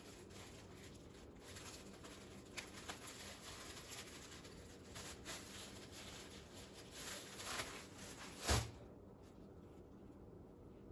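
Faint kitchen handling noises, light rustles and small clicks as buns are handled and set out, with one louder soft thump about eight and a half seconds in, after which the faint hiss drops away.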